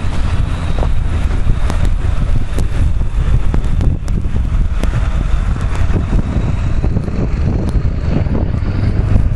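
Wind buffeting the camera's microphone as a steady, heavy low rumble, with scattered sharp clicks through it.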